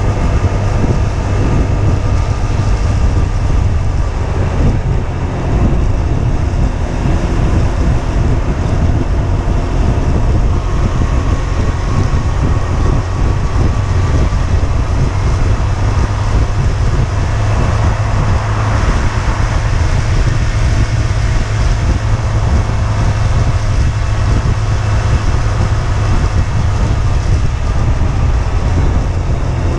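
Husqvarna Svartpilen 125's single-cylinder engine running steadily while riding, with some gentle changes in engine pitch, under a constant low rumble of wind and road noise.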